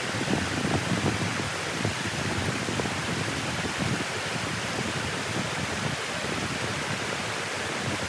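Steady rushing of water flowing at a dam, with wind gusting on the microphone.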